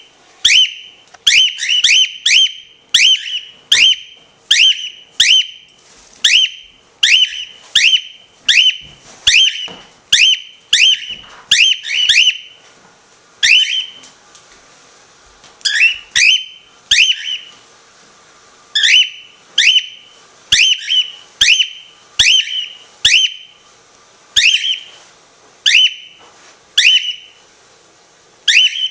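Birds calling loudly and over and over: short high-pitched calls, one to three at a time, about one or two a second, with a brief pause about halfway through.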